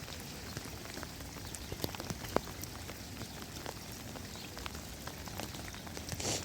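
Rain falling steadily, with scattered individual drops striking close by as sharp clicks over the even hiss.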